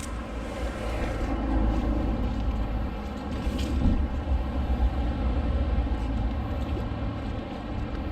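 Swollen, fast-flowing river rushing steadily, under a strong low rumble.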